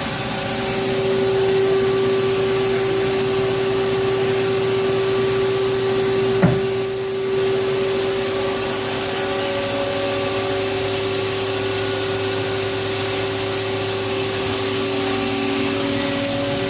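Haas SL20 CNC lathe running: a steady whine over a constant hiss, with one sharp click about six and a half seconds in.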